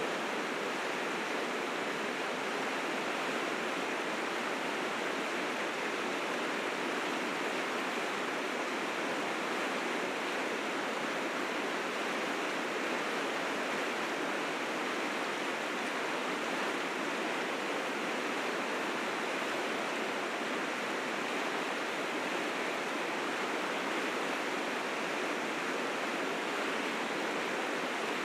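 River rapids rushing steadily, a dense, unbroken sound of white water that does not change. The river is swollen with spring snowmelt, running in fierce currents.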